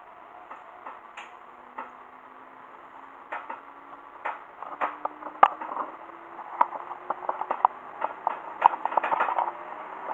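Heisei Chikuho Railway diesel railcar pulling away, its engine note rising steadily as it accelerates. Irregular clicking and rattling grows denser and louder about halfway in.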